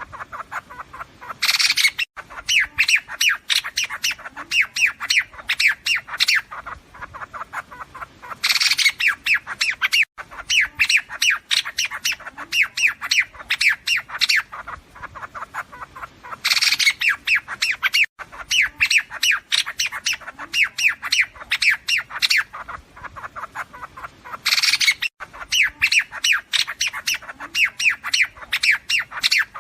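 Liếu điếu bird calls played as a trapper's flock-calling lure track: loud, harsh, rapid chattering notes, each phrase opening with a louder burst and repeating about every eight seconds like a loop.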